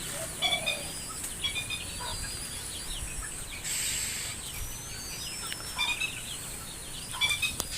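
Birds calling: groups of short chirping notes repeated every second or so, with several rising whistled glides in between, over a steady thin high-pitched hum.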